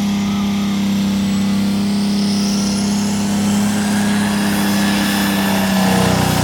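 Modified pulling tractor's engine running flat out at high revs, holding a steady note under load, with the pitch sagging slightly and a lower rumble growing near the end.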